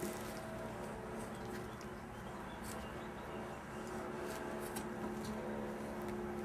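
Month-old puppies moving about and playing, with scattered small clicks and scrabbling over a steady low hum.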